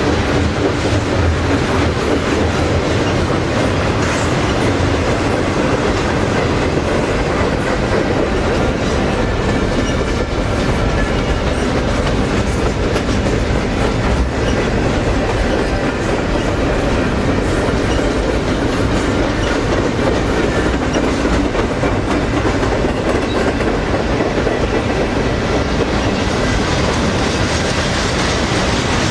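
Double-stack container freight train rolling past at steady speed: a continuous rumble of steel wheels on rail, the cars going by without a break.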